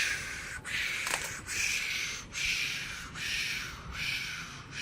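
A rhythmic series of rustling swishes, about one every three-quarters of a second.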